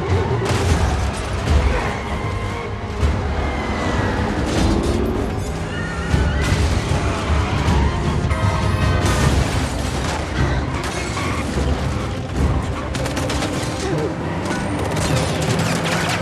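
Action-film soundtrack: dramatic score music mixed with repeated booms and crashes.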